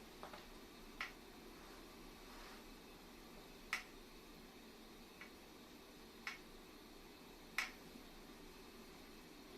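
A handful of sharp, isolated clicks and taps, irregularly spaced: hand tools and metal parts being handled while taking an air compressor apart.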